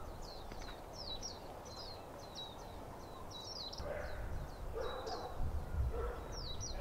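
Small birds chirping: a quick run of short, high, falling chirps, several a second, over a low steady outdoor rumble.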